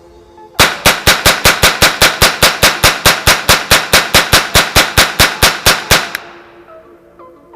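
AR-15 in .22 LR being fired rapidly, about two dozen loud shots at an even pace of roughly five a second, emptying the freshly converted magazine. The shots stop abruptly about six seconds in.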